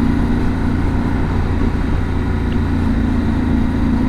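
Yamaha Ténéré 700 parallel-twin engine running steadily while riding at an even pace.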